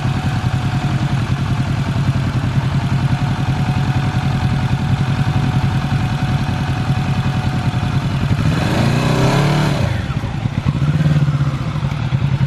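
2020 Kawasaki Z650's parallel-twin engine running at a steady idle. About two-thirds of the way through, the revs rise briefly and fall back, with a smaller rise near the end.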